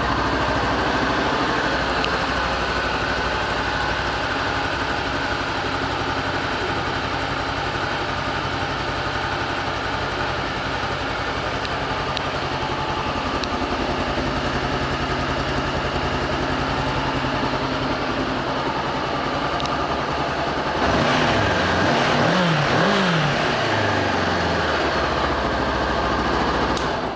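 2016 Honda CB500X's parallel-twin engine idling steadily just after starting. About two-thirds of the way through it is revved a few times, rising and falling in pitch, then settles back to idle.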